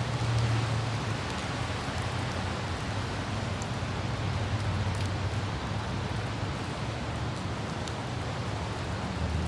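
Steady hiss of light rain, with the low hum of a car driving and scattered faint ticks of raindrops.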